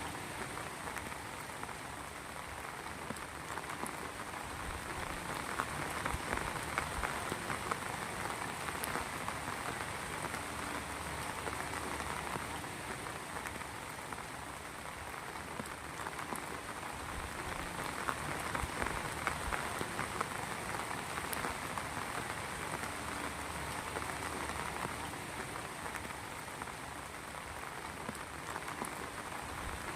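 Rain falling steadily, a dense patter of drops that swells and eases slightly every several seconds.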